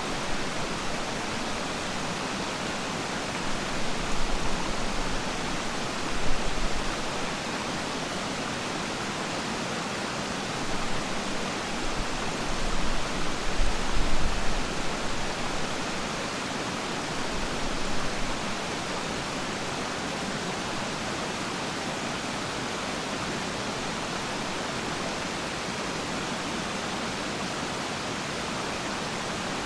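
Waterfall pouring steadily, a dense, even rush of water. A few brief low rumbles swell and fade in the middle.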